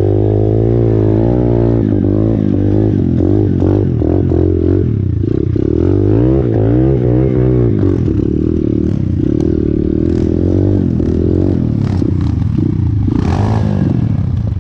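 A 125cc pit bike's engine running under riding, the revs rising and falling again and again over rough ground, then holding steadier after about eight seconds, with some rattling from the bike.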